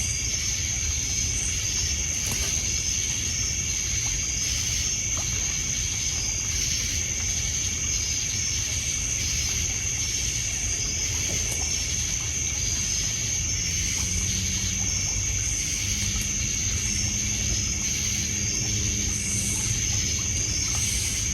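Lakeshore night ambience: crickets and other insects trilling steadily, with evenly repeating chirps, over water lapping on a pebble beach and the odd faint crackle from a wood fire. A low steady hum comes in about two-thirds of the way through.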